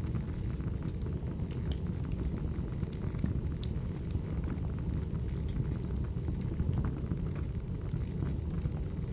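Firewood burning: a steady low rumble of flames with scattered sharp crackles and pops at irregular moments.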